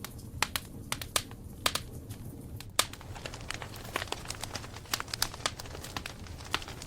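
Campfire burning: irregular sharp crackles and pops of burning wood over a low steady rumble of flame, the pops coming faster after about three seconds.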